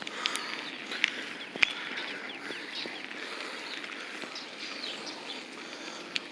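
Birds chirping many times over a steady outdoor hiss, with a few sharp clicks, the loudest about one and a half seconds in.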